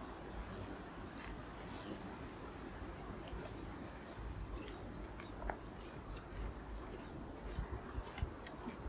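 Steady high-pitched chirring of insects, with a low rumble underneath and a few faint clicks.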